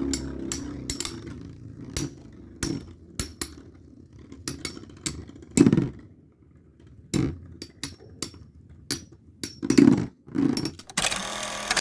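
Metal-wheeled Beyblade spinning tops, Storm Pegasis 105RF and Dark Bull H145SD, battling in a stadium: a fading spin whir, then irregular sharp clacks as the tops collide and knock against each other and the stadium. A short harsh rasp comes near the end.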